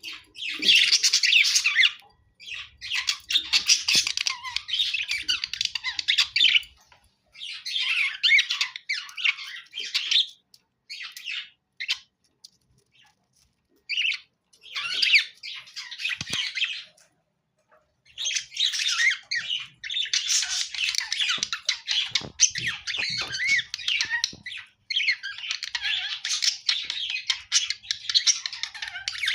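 Budgerigars chattering and squawking in bouts of a few seconds, broken by short pauses.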